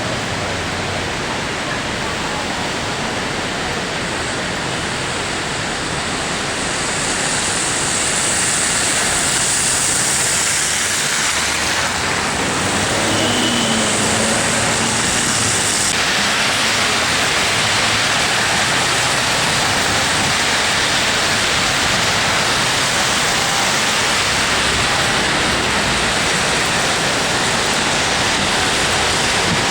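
Strong winter-storm wind blowing, a steady loud rush with no distinct events, growing louder about seven seconds in and again around sixteen seconds in.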